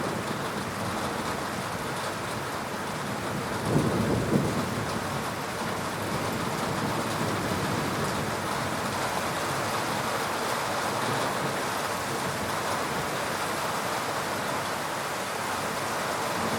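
Steady heavy rain from a summer thunderstorm, with a short low rumble of thunder about four seconds in.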